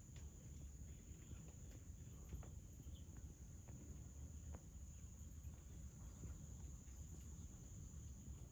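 Faint, steady high-pitched insect chirring, over a low rumble and a few scattered soft clicks.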